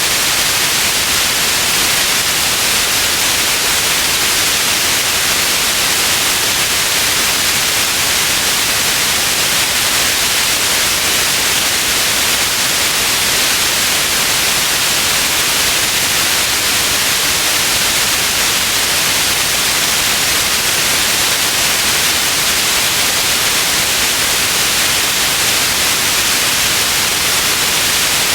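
Steady synthetic white noise: an even, unchanging hiss, strongest in the upper frequencies.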